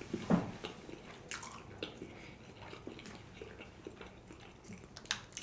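Close-up chewing of sushi: soft, wet mouth sounds and small clicks, with a sharper click just after the start and another near the end.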